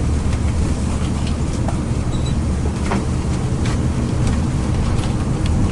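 Inside a moving coach bus: a steady low engine and road rumble, with scattered small clicks and rattles.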